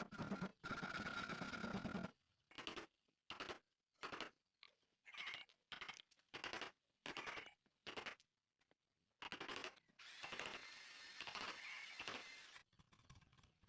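Woodworking tool sounds. A tool with a steady hum runs for about two seconds and cuts off. Then comes a run of short scraping strokes on wood, one or two a second, followed by a longer scrape of about three seconds.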